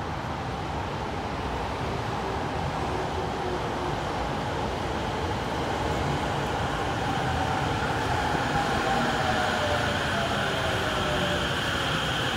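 Electric commuter train pulling into a station platform, its running rumble growing louder as it comes alongside. A motor whine falls steadily in pitch as the train brakes and slows, and a high tone grows in near the end.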